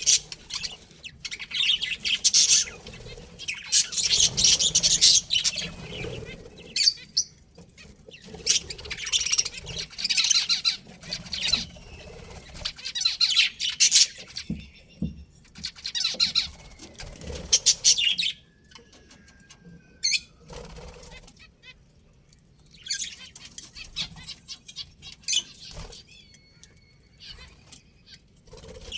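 Budgerigars chattering in repeated bursts of dense, high chirping a second or two long, with quieter gaps and a few thin whistles in between.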